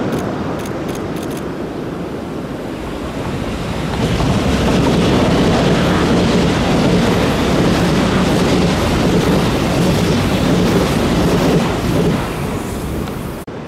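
Passenger train passing close by on the coastal line, a steady rumble of wheels on rail that swells about four seconds in, stays loud, and eases off near the end before cutting off abruptly.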